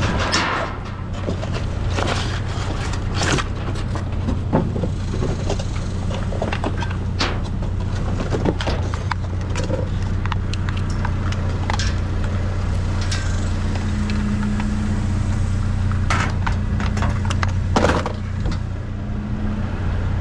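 A steady low engine hum, like a vehicle idling, runs under irregular knocks, clatters and rustles of scrap junk being handled and moved around.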